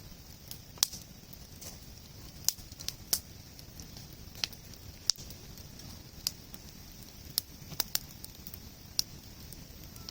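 Wood campfire crackling: irregular sharp pops of burning firewood, about a dozen in ten seconds, over a low steady rumble.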